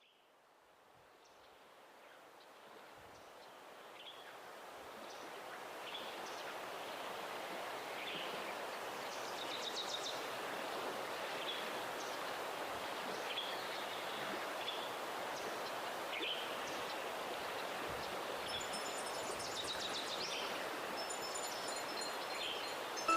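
Outdoor nature ambience: a steady rushing noise, with a bird repeating a short call about once a second. The ambience fades in over the first few seconds.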